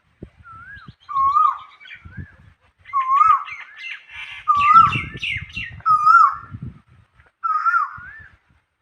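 Birds calling: a repeated wavy, whistled call about once a second, with several calls overlapping in the middle and a last one near the end. Low thumps sound beneath the calls.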